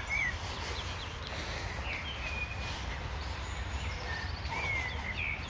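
Small birds chirping in short calls a few times, near the start, about two seconds in and near the end, over a steady low rumble.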